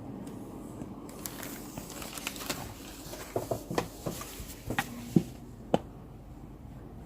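Small ceiling fan's motor humming steadily, with a run of sharp clicks and crinkling sounds from about one second in until about six seconds in.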